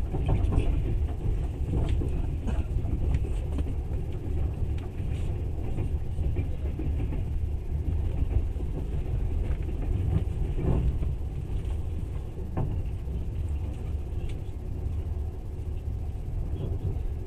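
Passenger train running along the track, heard from inside the carriage: a steady low rumble of wheels on rails, with a few sharp knocks.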